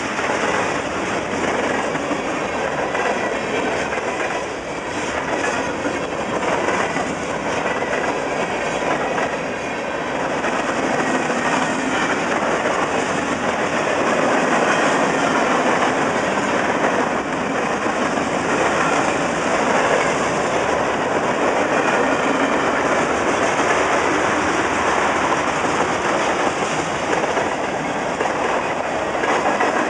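CN freight train's cars rolling past close by: a steady, loud noise of steel wheels running on the rails, getting a little louder about a third of the way in.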